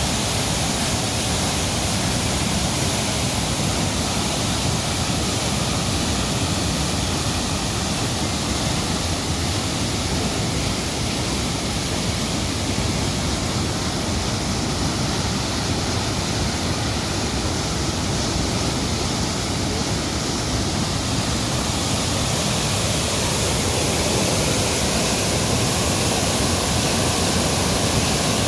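Steady rush of a large volume of flowing water, even and unbroken throughout.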